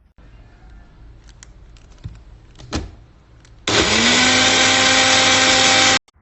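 Blender motor fitted with a replacement cross blade switched on, spinning up quickly to a steady high whine and running for about two seconds before cutting off suddenly. Before it, a few clicks and knocks of handling.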